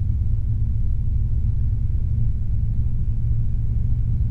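Cabin noise of a Robinson R22 helicopter in powered flight: engine and rotors running as a steady low rumble.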